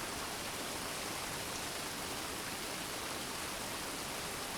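Steady gentle rain falling, an even hiss without thunder.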